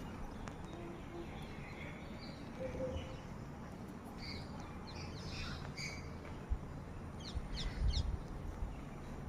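Birds chirping, short scattered calls with a quick run of high falling notes about three-quarters of the way through, over a low rumble with an occasional knock.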